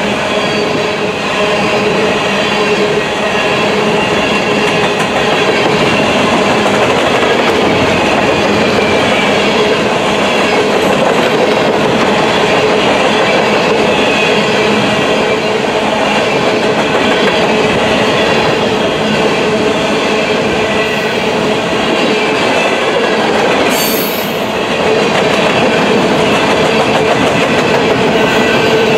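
Coal hopper cars of a freight train rolling past close by: the steady noise of steel wheels on rail, with faint high wheel tones over it. About 24 seconds in there is a brief sharp high squeal.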